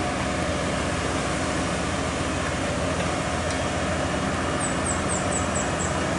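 Heavy truck's diesel engine running steadily with a low, even drone, with a few short high chirps near the end.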